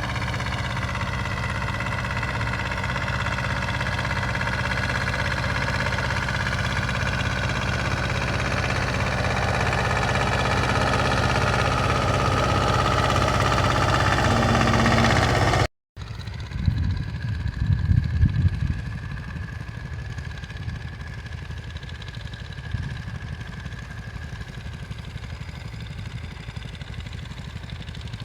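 Zetor tractor's diesel engine running steadily at work, growing louder as it draws closer. After a sudden cut about sixteen seconds in, a quieter engine sound follows, with a spell of clattering soon after the cut.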